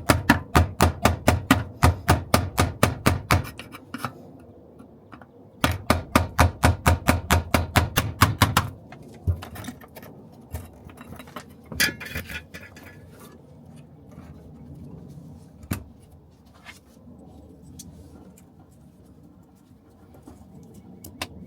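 Ratchet wrench clicking rapidly in two runs of about five clicks a second as a fastener is turned, then a few scattered light knocks.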